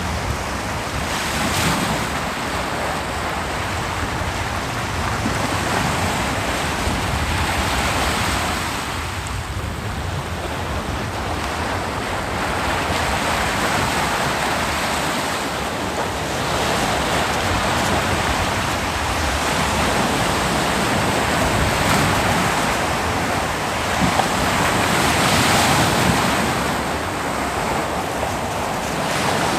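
Ocean surf breaking on a beach: a continuous wash of waves that swells and subsides every few seconds, with a light rush of wind.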